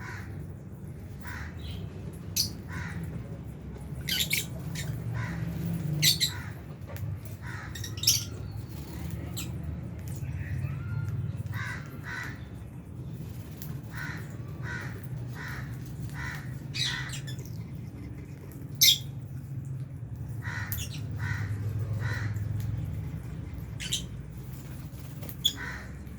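A flock of lovebirds calling, with short, sharp squawks and chirps scattered irregularly and a few louder shrieks standing out, over a steady low hum.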